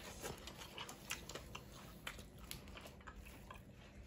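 Chewing of a crispy fried battered small-shrimp fritter wrapped in lettuce: faint, irregular crunches close to the mouth.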